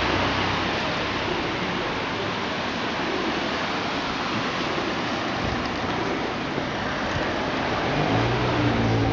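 Steady rain falling on a wet town street, a continuous hiss. Near the end a low engine hum comes in from a vehicle.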